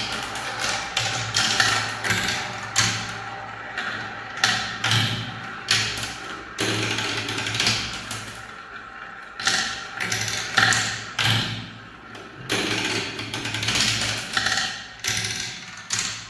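Marbles rolling down a spiral marble-run track, with a continuous rolling rattle broken by repeated sharp clacks as the balls hit the track and each other, thinning out near the end.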